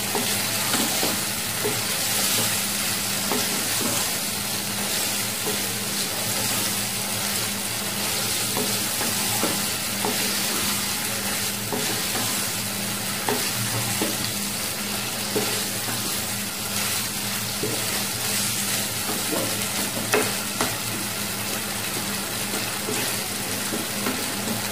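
Chicken pieces sizzling as they fry in masala in a nonstick wok, a steady hiss. A wooden spatula stirs and turns them, scraping and knocking against the pan now and then.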